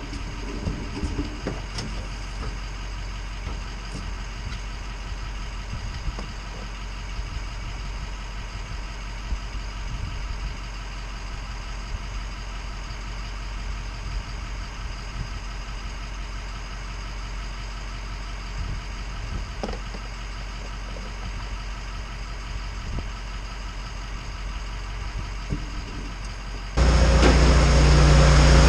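An engine idling steadily. Near the end a much louder, deeper engine or machine sound cuts in suddenly.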